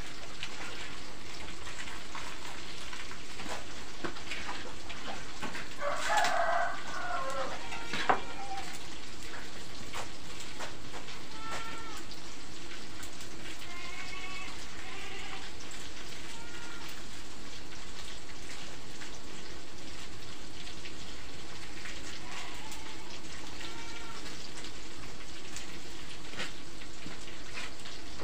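Steady sizzle of food frying in hot oil, with a rooster crowing loudly about six seconds in and shorter chicken calls now and then. A single sharp knock about eight seconds in.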